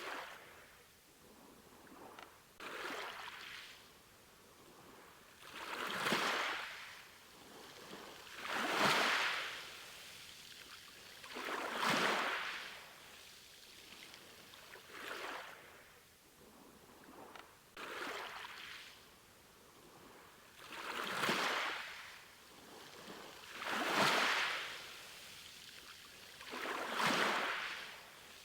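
Sea waves washing in, one swell of surf about every three seconds, each rising and then fading away.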